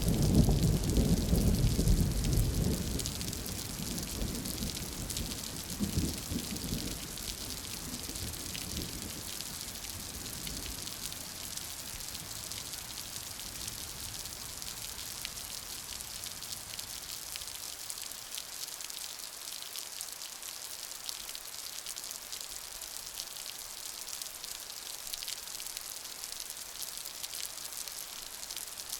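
Steady rain hissing throughout. A rumble of thunder fades out over the first few seconds, and a smaller rumble follows about six seconds in.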